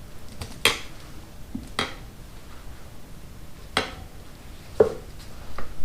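Metal tire irons clinking against a motorcycle wheel rim while the tire bead is levered over it by hand: about five sharp, separate clinks at uneven intervals, the loudest near the start.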